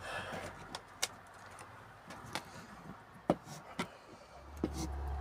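Handling noise from plastic boxes and a phone: a brief rustle, then a few scattered light clicks and taps, with a low rumble building near the end.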